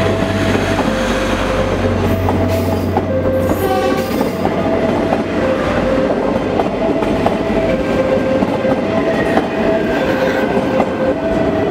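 Sriwedari AC passenger train passing close at speed: a steady rush of wheels on rail, with clicks as the wheels cross rail joints and a low drone during the first few seconds. Over it, a level-crossing warning alarm sounds throughout in two alternating tones.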